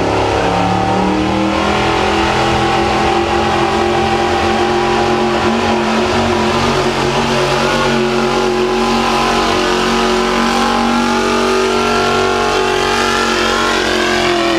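Pulling truck's engine held at high revs under full load as it drags the weight sled down the track, a loud, steady drone whose pitch drifts only slightly.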